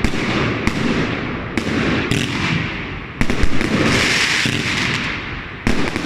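Heron Fireworks 'Bad Wolff' compound battery firing: a string of sharp shots and bursts, one every half second to a second, each with an echoing tail. A longer hissing stretch comes about midway.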